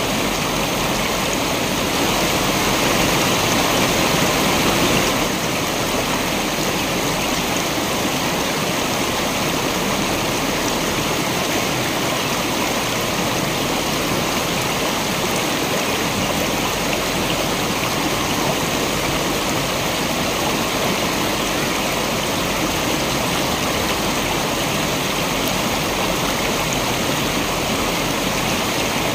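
Waterfall: a steady rush of falling, splashing water, swelling slightly for a few seconds near the start.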